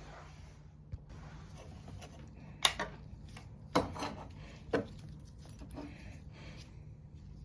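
Small hard objects being handled: four sharp clinks and knocks about two and a half to five seconds in, with quieter rubbing and rustling between them.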